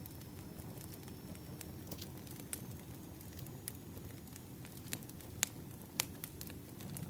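Campfire crackling: a steady low rumble of burning wood with scattered sharp pops, the two loudest about five and a half and six seconds in.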